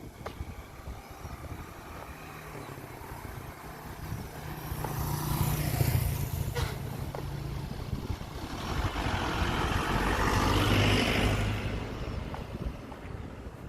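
Vehicles passing by, one after another: the sound swells and fades twice, a shorter pass about five seconds in and a longer one around ten seconds in, each with a low hum under a hiss of rolling noise.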